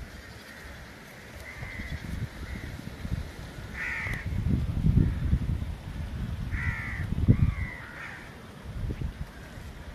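Short, harsh bird calls, crow-like caws, come several times a few seconds apart over a gusty low rumble of wind on the microphone, which swells loudest around the middle and about three quarters of the way through.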